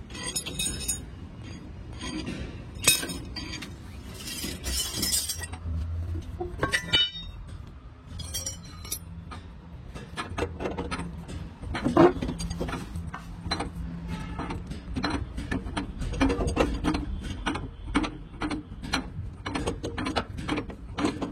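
Metal-on-metal workshop clinking and knocking of hand tools on steel parts, with quick runs of evenly spaced ratchet-like clicks in the second half, during work on fitting a truck leaf spring's center bolt.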